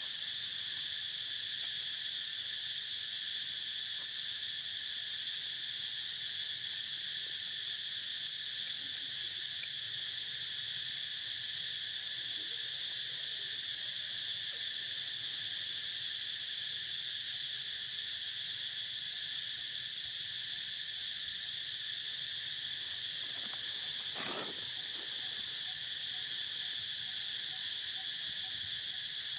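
A steady, unbroken chorus of insects chirring at several high pitches, with one short, lower sound about three-quarters of the way through.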